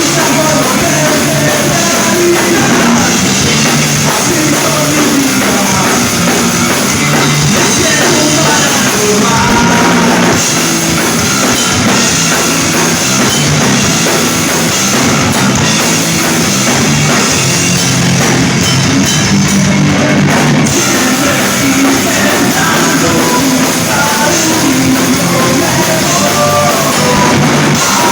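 Rock band playing loud live, with a drum kit and a singer's voice over the instruments.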